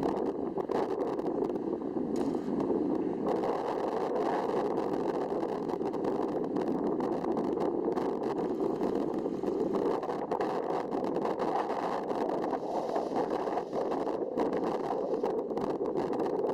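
Steady rushing wind noise on the microphone in a light breeze, with frequent small crackles.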